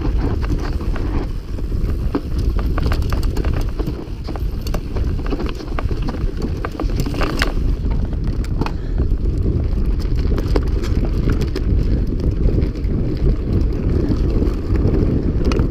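Mountain bike riding fast down a rough, dusty trail: wind buffets the microphone while the tyres run over loose ground, with many sharp clicks and rattles from stones and the bike.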